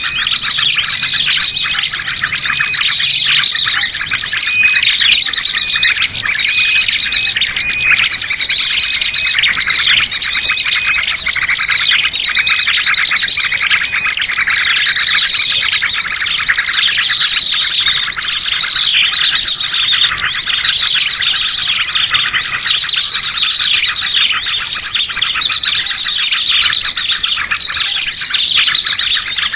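Dense, unbroken chorus of many small birds chirping and trilling rapidly over one another, a bird-trapping lure recording ('master pikat') made to draw wild birds in.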